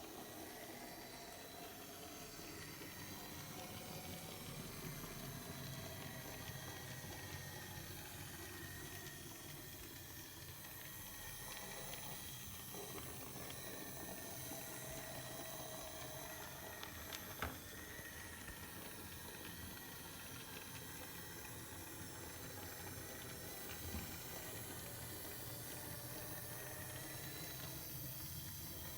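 009 gauge model locomotive running along its track: a steady low rumble and hiss with a faint whine from the small motor, and one sharp click about 17 seconds in.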